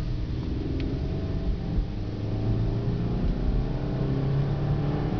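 A 2012 Chevy Equinox's 2.4-litre four-cylinder Ecotec engine pulling under acceleration, heard from inside the cabin over road rumble, its pitch rising steadily.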